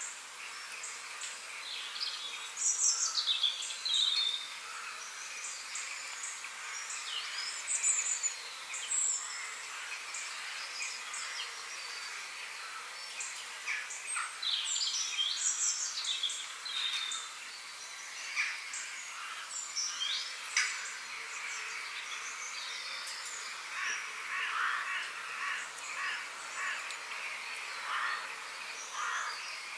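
Wild birdsong: many short chirps and quick whistled notes from several birds, scattered over a steady background hiss.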